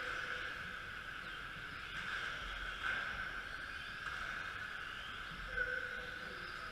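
Radio-controlled model racing trucks running, their motors whining steadily, with brief swells in level about three seconds in and again near the end.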